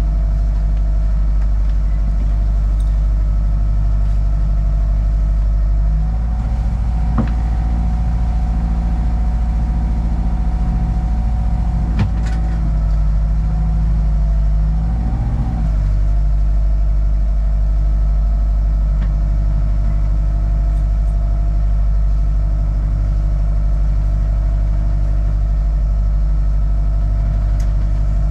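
Sailing yacht's inboard engine running steadily under way, a deep, even drone. From about six seconds in the note rises slightly for around ten seconds, then settles back, with a couple of sharp knocks along the way.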